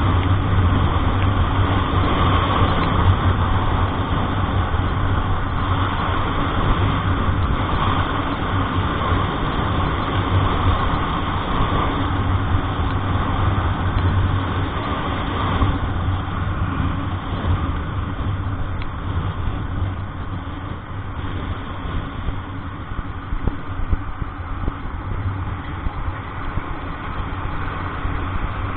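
Road vehicle's engine running with a steady low drone under road noise, easing slightly a little past halfway.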